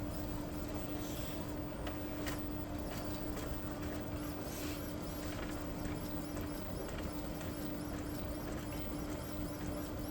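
Epson L3256 inkjet printer printing a nozzle check pattern: a steady motor hum under the print mechanism. From about halfway on, a regular series of faint high chirps comes, about three a second.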